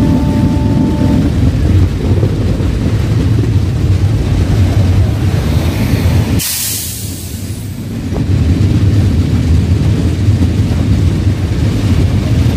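Passenger train running on the line, heard from on board: a steady rumble of wheels on track. About six and a half seconds in the rumble drops away for a second or two and a short hiss sounds, then the rumble comes back.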